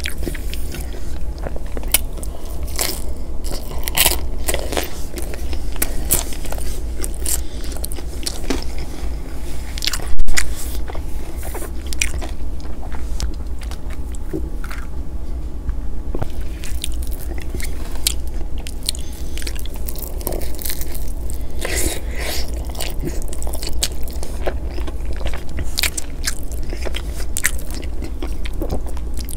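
Close-miked chewing and biting of pepperoni pizza, with wet mouth clicks and crunches of crust coming irregularly, and swallows of an iced drink around the middle. A single brief loud knock about ten seconds in, over a steady low hum.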